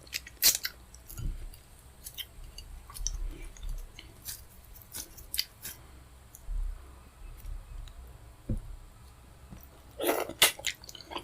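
Close-miked eating sounds of fufu with pepper soup: soft chewing with scattered wet mouth clicks and smacks, and a louder breathy burst near the end.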